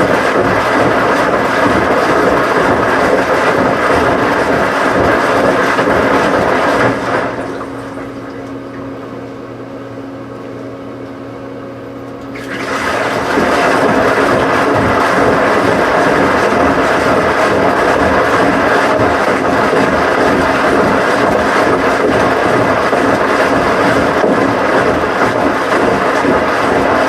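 Washing machine running with a loud, steady rush of water. About seven seconds in, the rush drops away for some five seconds, leaving a steady motor hum, then it comes back.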